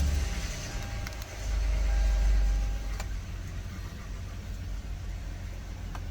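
Toyota Highlander's V6 engine just after starting: it briefly rises in level about one and a half seconds in, then settles to a steady idle. The owner calls it quite loud and blames a knock from the motor, with metal shavings found in the oil filter.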